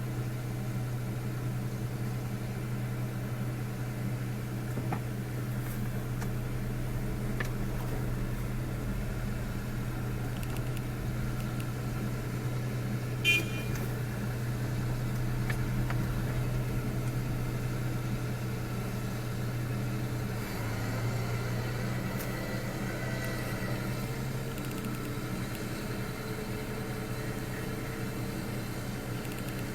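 Steady drone of a car running, a low hum with faint noise above it, and one short sharp click about 13 seconds in.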